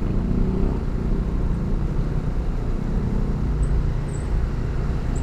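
Motorcycle engine running steadily while riding, with wind and road noise on a rider-worn camera's microphone, and a few brief high chirps in the second half.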